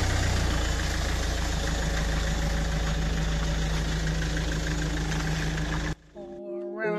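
A car engine idling steadily. It cuts off sharply about six seconds in, and music with singing begins.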